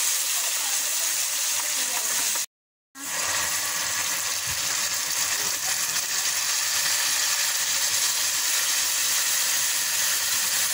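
Sliced onions, tomato and ginger-garlic paste sizzling steadily in hot ghee in an aluminium pressure-cooker pot. The sound cuts out completely for about half a second near the three-second mark, then the sizzle resumes.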